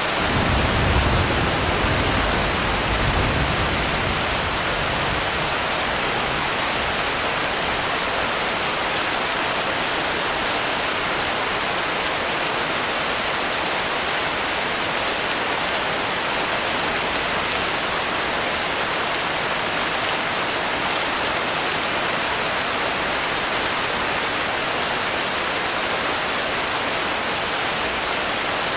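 Steady, dense rainfall, an even hiss with no single drops standing out. A low rumble swells twice in the first few seconds and then dies away.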